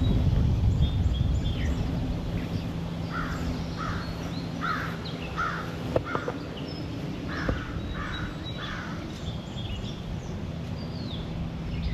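A crow cawing in two runs, four caws and then three a little later. Under the calls a low wind rumble sounds on the microphone, and small birds chirp high above.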